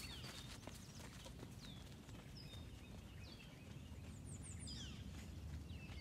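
Faint outdoor ambience: a wild bird's short, high chirps sliding downward, repeated every second or so and bunching near the end, over a low steady rumble.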